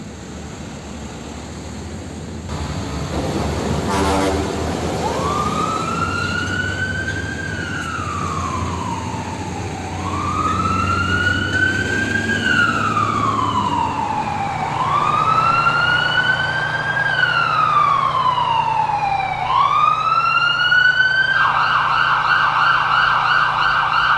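Ambulance siren wailing, sliding up and down in long sweeps about every five seconds, then switching to a fast warble about 21 seconds in. A truck engine rumbles underneath through the first half.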